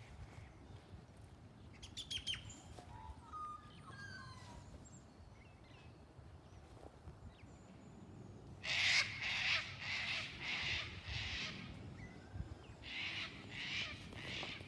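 Birds calling outdoors: a few small birds chirp and twitter, then from about eight seconds in a bird gives a run of loud, harsh, repeated calls, two or three a second, in two bouts.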